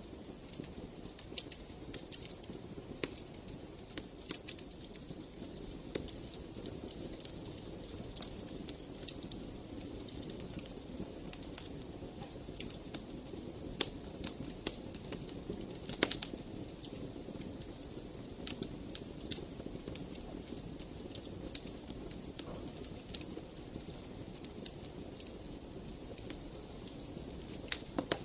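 Wood fire crackling in a fireplace: a steady low rumble of flames with irregular sharp pops and snaps, one louder pop about sixteen seconds in.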